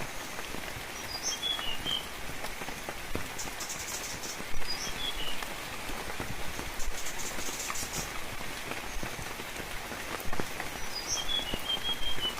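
Steady rain falling with individual drops ticking. A bird sings the same short phrase three times: a high note, then a quick run of lower chirps.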